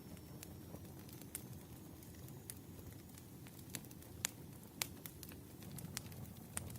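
Campfire sound, crackling: irregular sharp pops and snaps over a low, steady rumble of burning.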